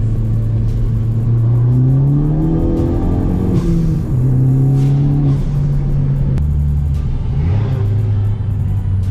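Ford Focus ST engine and exhaust pulling under acceleration, the revs rising and falling with gear changes, with music playing along with it.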